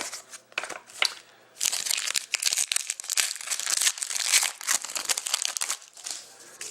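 Plastic or foil card-pack wrapper crinkling as it is handled and torn. A few light clicks come first, then dense crinkling from about a second and a half in until near the end.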